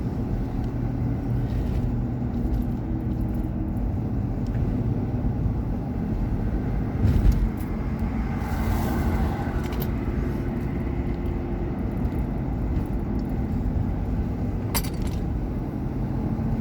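Steady engine and road noise heard inside a moving car's cabin, with a short thump about seven seconds in and a brief swell of louder noise just after.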